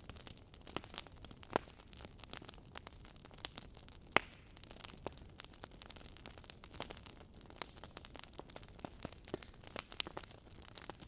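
Wood fire crackling in a fireplace: burning logs popping irregularly over a steady low hiss, with one sharper pop about four seconds in.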